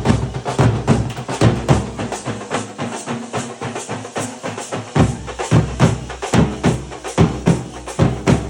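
Loud music driven by drums beating a steady rhythm, with held tones underneath.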